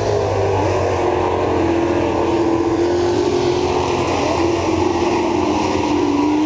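Super truck race engines running on a dirt oval: a loud, steady engine drone whose pitch wavers slightly as the trucks circle the track.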